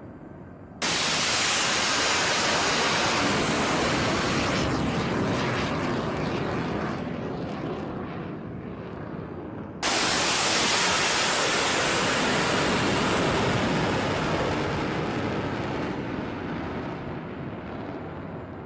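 Two Tomahawk cruise missiles launching from a warship, each a sudden roar of the rocket booster that fades over several seconds as the missile climbs away. The second launch comes about nine seconds after the first.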